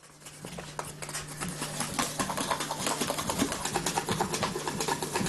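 Rapid, irregular clicking and tapping over a faint, steady low hum.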